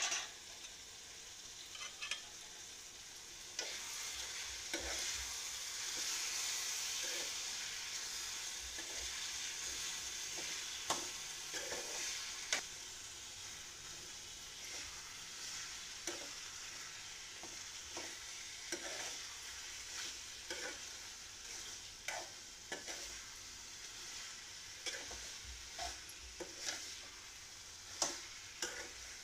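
Masala chicken sizzling as it fries in a metal kadai on a gas burner, stirred with a spatula that scrapes and knocks against the pan at irregular intervals. The sizzle is strongest in the first several seconds and slowly eases off.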